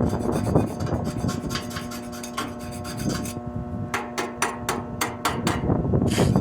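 Hand tool work on metal: repeated scraping and tapping strokes, then a quick run of about eight sharp strikes near the end, over a steady hum.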